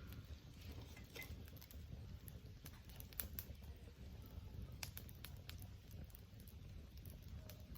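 Wood campfire crackling: faint, irregular small pops and snaps over a low, steady rumble.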